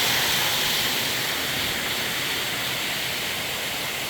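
Steady rush of flowing creek water, easing off slightly.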